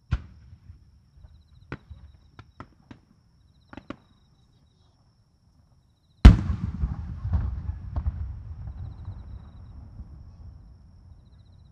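Fireworks shells bursting in the air: a sharp report at the start and a few smaller cracks over the next four seconds, then one very loud shell burst about six seconds in whose boom rolls on and fades away over about five seconds.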